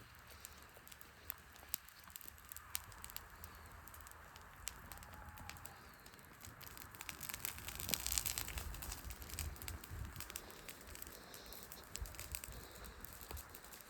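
Wood campfire burning, crackling and popping with scattered sharp snaps. The crackling thickens and grows louder for a couple of seconds about halfway through.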